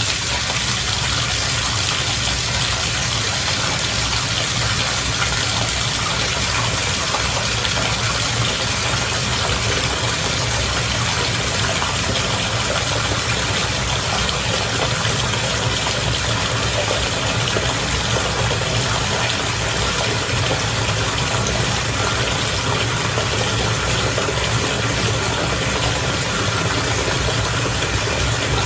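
Bath water bubbling and churning steadily, with a constant low hum underneath.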